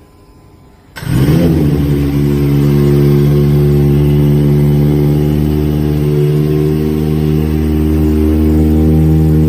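Kawasaki Ninja ZX-25R's 250 cc inline-four engine starting about a second in, flaring briefly, then settling into a steady idle through its exhaust.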